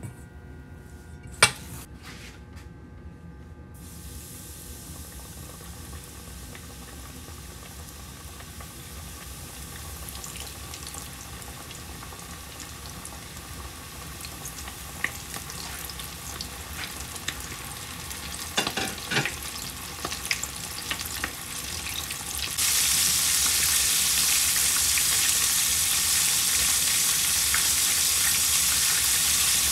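Battered chicken pieces deep-frying in hot grease in a cast-iron skillet: a steady sizzle with scattered crackles, which becomes much louder about three-quarters of the way through. A single sharp knock comes before the frying, about a second and a half in.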